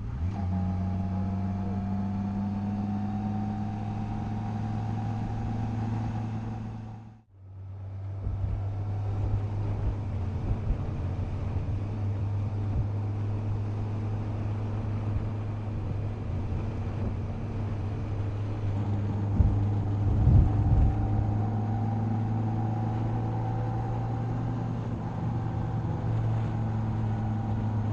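Yamaha FJR1300 sport-tourer's inline-four engine running at a steady pitch while riding, its tone drifting slowly up and down. About seven seconds in the sound drops out briefly and comes back, and a few short thumps come around twenty seconds in.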